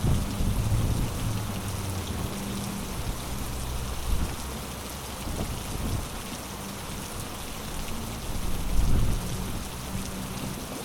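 Heavy rain pouring steadily on surfaces, with a low rumble underneath that swells briefly about nine seconds in.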